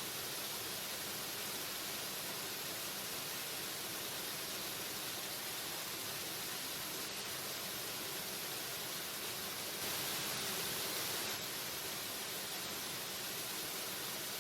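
Waterfall rushing: a steady, even roar of falling water, a little louder for about a second and a half around ten seconds in.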